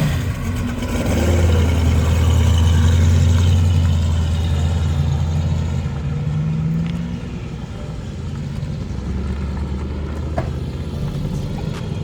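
Muscle car engine running with a steady low rumble, loudest in the first few seconds, then dropping back to a lower steady run.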